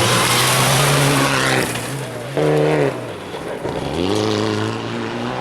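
Rally car engine running hard. The revs fall away about one and a half seconds in, a short sharp blip of revs follows, then they climb again near the end.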